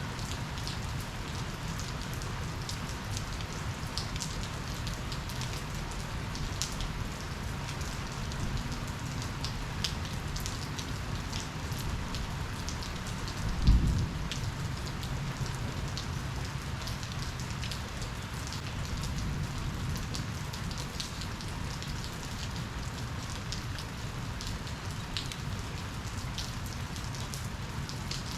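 Steady rain falling, with individual drops ticking close by. A single short, low thump about halfway through.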